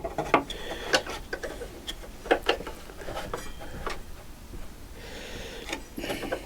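Irregular metallic clicks and knocks from hand tools on the motorcycle's front mudguard bolts.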